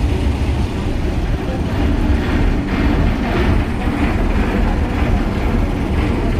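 Steady low rumble of a running engine, with indistinct voices in the background about two to four seconds in.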